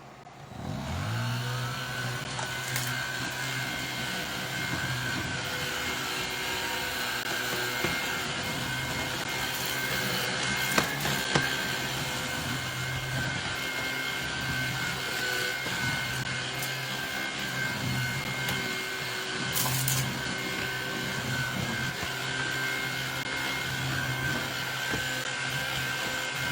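BLACK+DECKER POWERSERIES+ 16V MAX cordless stick vacuum switching on, its motor hum rising in pitch in the first second, then running steadily with a whine. Two sharp clicks about eleven seconds in.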